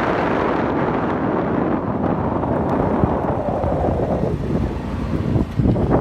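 Steady rushing noise of a car driving on snowy city streets: tyre and road noise mixed with wind. It eases a little about four seconds in, with a few low thumps near the end.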